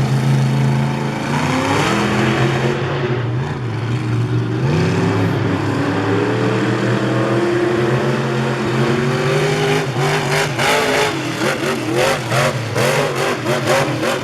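Monster truck engine revving: its pitch climbs steadily over the first several seconds, then from about ten seconds in it is revved up and down in quick blips of throttle.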